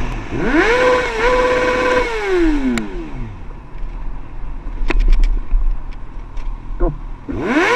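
The rider's 50cc moped engine, restricted to 45 km/h, revving up, holding and then dying back down. A second rise and fall comes near the end.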